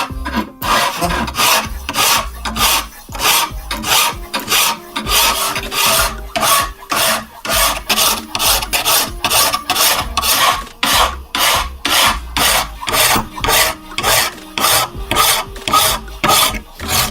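Steady back-and-forth rasping strokes of hand filing or abrading, about two a second, in an even rhythm.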